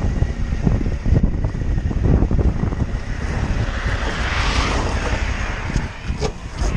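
Motorcycle riding noise: an engine drone under heavy low wind rumble on the microphone, with a hiss rising in the middle of the stretch.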